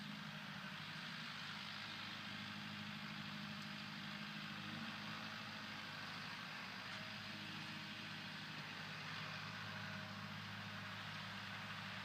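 Kubota M4701 tractor's diesel engine running steadily, a low even hum with hiss above it.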